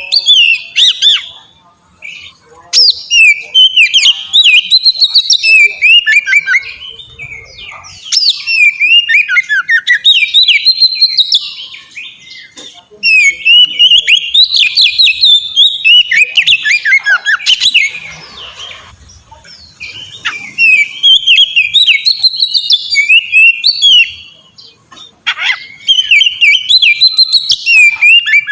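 Oriental magpie-robin (kacer) singing full, loud song: bouts of rapid, varied whistled and chattering phrases a few seconds long, broken by short pauses.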